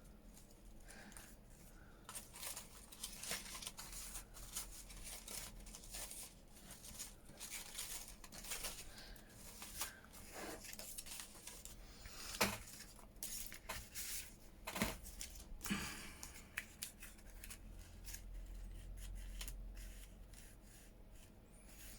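Paper and card being handled and cut at a craft table: soft, scattered rustles, snips and taps, with a few sharper clicks around the middle.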